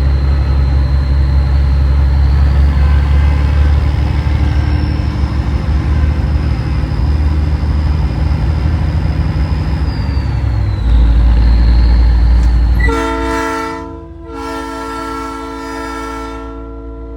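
A big rig's engine drones heavily and steadily, louder for a couple of seconds about two-thirds of the way in. Then a Nathan Airchime P3 three-chime horn sounds a held chord, with a brief break just after it starts, and keeps sounding to the end.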